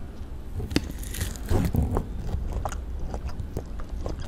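Close-miked biting and chewing of food, with scattered short wet mouth clicks and a louder stretch of chewing about a second and a half in.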